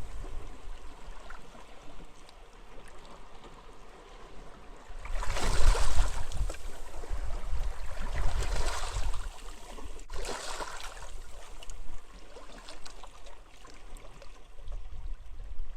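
Sea waves washing onto a beach, swelling about five seconds in and twice more after, over a low rumble of wind.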